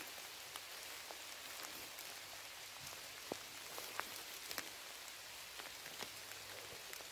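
Light rain falling: a faint, steady hiss with irregular single drops ticking at odd moments.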